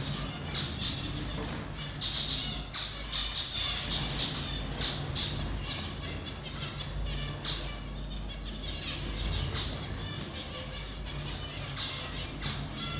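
Small cage birds, budgerigars and zebra finches, calling in many short, repeated chirps and squawks, with a low steady hum underneath.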